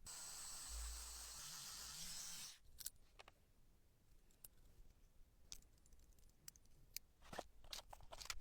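A steady hiss for about two and a half seconds that cuts off suddenly, followed by scattered light clicks and taps, a few close together near the end.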